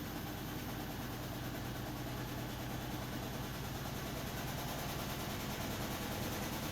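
Beko 10 kg washing machine running, a steady motor hum with a fast even pulse, growing slowly louder.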